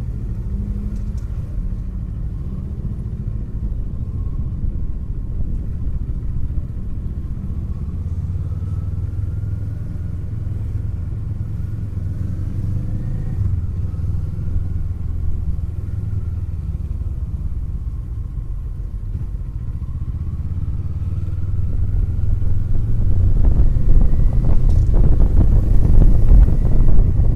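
2024 Kawasaki Eliminator SE's parallel-twin engine running as the bike is ridden, a steady low rumble that grows louder about 22 seconds in.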